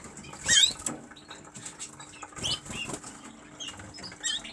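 Caged canaries fluttering and hopping about, with a few short chirps.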